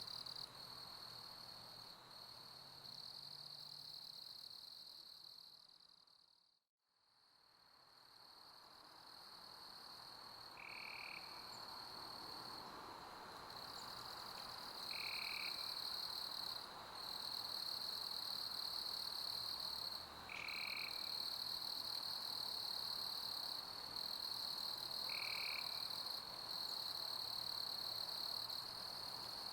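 A chorus of crickets chirping in a steady high trill over a soft hiss, with a short, lower call about every five seconds. Around seven seconds in the sound fades almost to silence, then builds back up over the next several seconds.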